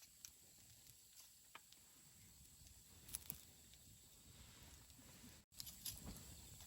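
Wood campfire burning quietly, with a faint hiss and a few scattered crackles, the loudest a pair of pops about three seconds in.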